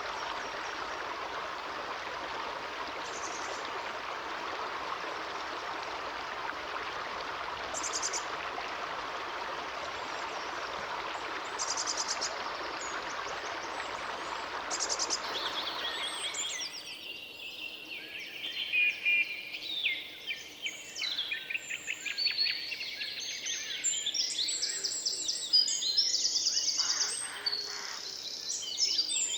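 Steady rush of a stream with a few scattered bird chirps; a little over halfway through the water sound cuts off abruptly and a busy chorus of songbirds takes over, many overlapping chirps and trills.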